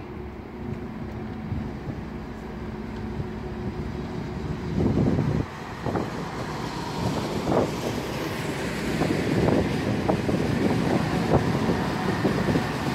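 Stadler FLIRT electric multiple unit rolling into the station: a low rumble that grows louder, with wheels clattering over rail joints and points from about five seconds in.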